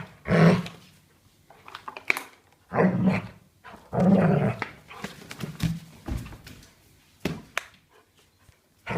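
Dobermann puppy vocalising in several short, loud bursts, the strongest about half a second, three seconds and four seconds in, with a few sharp clicks between and a quieter stretch near the end.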